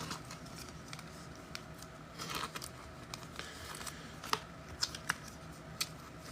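Trading cards and packs being handled: scattered light clicks and taps, with a short crinkling stretch about two seconds in.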